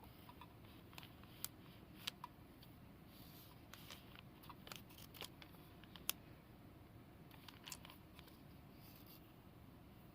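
Near silence, broken by a dozen or so faint, scattered clicks and light ticks, with a couple of brief soft rustles.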